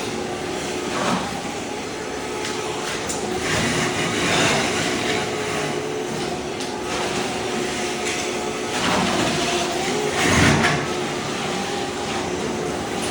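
Ride-on floor scraper running, its blade scraping thin-set mortar off a concrete slab: a steady machine hum under continuous grinding, with louder scraping surges about a second in, around four seconds, and twice between nine and eleven seconds.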